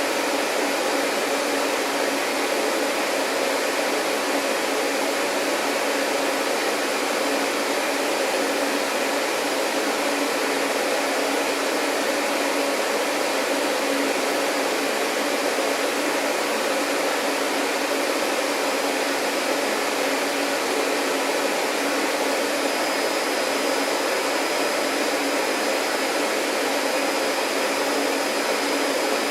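Vacuum cleaner motor running steadily, an even rushing hum with a constant pitch. A faint high whine joins about two-thirds of the way through.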